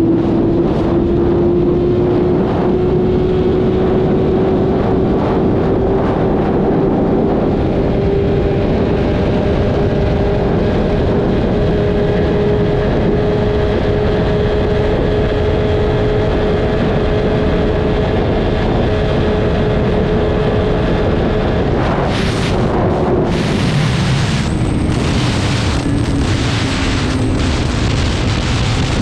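BMW S1000RR inline-four engine pulling under steady throttle, its pitch rising slowly and then holding, with wind rushing over the microphone. About 22 seconds in the throttle closes, the engine note drops, and the exhaust pops and crackles on the overrun.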